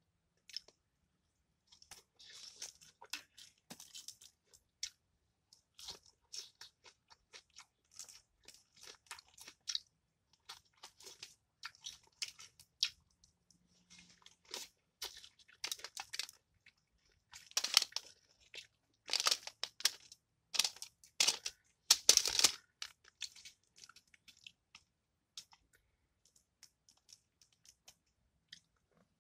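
Close-up chewing and crunching of crispy breaded fried fish, in irregular crackly bites. The loudest crunches come in a cluster a little past the middle, and the crunching thins out near the end.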